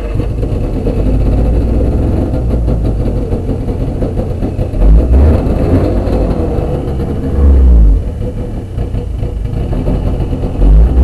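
Old snowmobile engine running on choke just after a cold start, with a steady idle and two louder low surges, about five and seven and a half seconds in.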